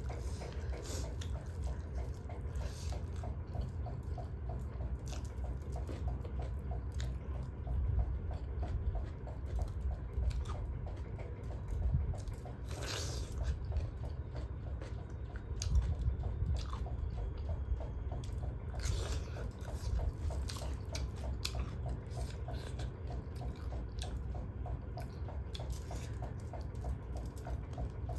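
A person chewing and biting food close to the microphone: wet smacking and scattered crunches while eating duck curry, over a steady low hum.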